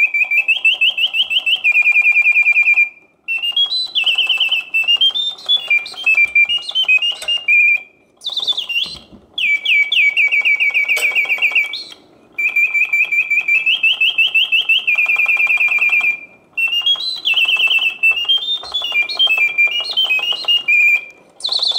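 Reuge singing bird cage's bellows-driven whistle singing a mechanical birdsong. Rapid high trills and warbling, up-and-down phrases repeat in sequences, each broken by a short gap every four to five seconds. It sings in full voice with the mechanism freshly serviced.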